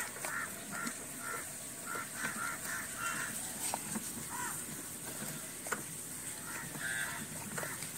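Crows cawing repeatedly in short runs of calls, with a few faint clicks in between.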